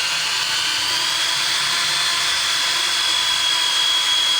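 Small electric drill running continuously with a high whine, its pitch climbing a little in the first second and then holding steady.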